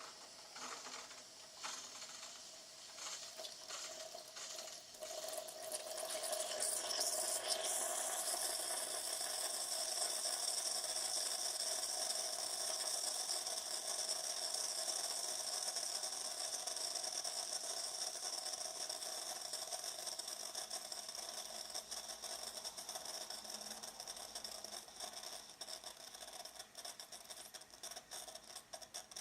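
Bosch Tassimo Vivy pod coffee machine brewing: its pump starts with a few seconds of irregular clicking, then settles about six seconds in into a steady mechanical rattling drone that slowly fades.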